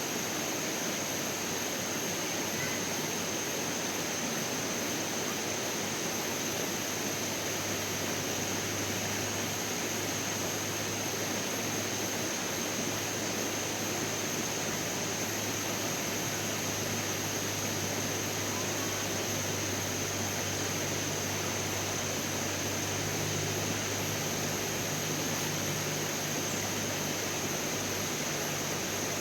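Steady rushing of flowing water, with a constant high-pitched drone over it and a low hum that comes in about eight seconds in.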